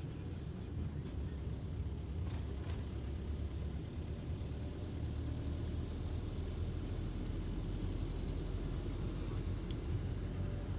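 Car running at low speed, heard from inside the cabin: a steady low rumble of engine and road noise, with two faint clicks a little after two seconds in.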